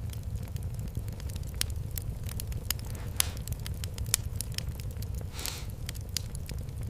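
Fireplace wood fire crackling, with frequent sharp pops over a steady low rumble. A short hiss comes about five and a half seconds in.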